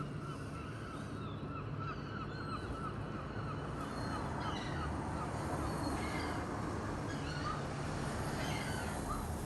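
Seagull chick crying for food: a run of short, repeated calls, about four a second, over the first few seconds, then a few scattered higher calls, over a steady low background rumble.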